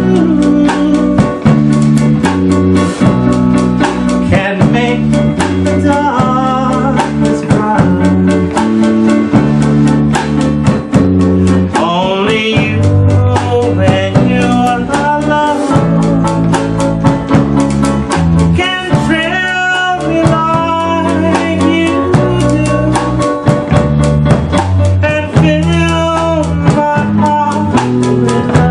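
A band playing a song: a drum kit keeps a steady beat under a walking bass line and guitar, with a voice singing the melody at times.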